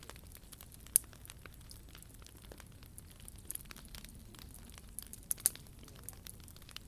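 Wood fire burning, crackling steadily with scattered small ticks and two sharper pops, about a second in and near the end.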